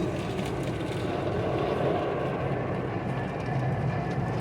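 Automatic car wash machinery at its final drying stage, heard from inside the car: a steady low drone.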